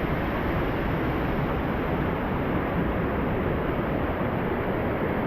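Steady, unbroken rush of a double waterfall's falling water, heard close up.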